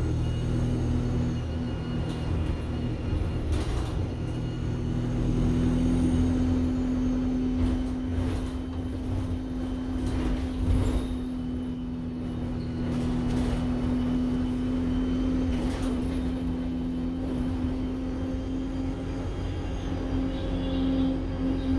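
Enviro 200 single-deck bus running, with a steady whine and a faint high turbo whistle that rises and falls a few times. Several short knocks and rattles come through along the way.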